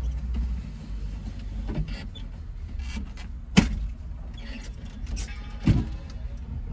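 Tofaş Şahin's four-cylinder engine idling with a steady low rumble, heard from inside the cabin. Two sharp knocks come about three and a half seconds in and again two seconds later.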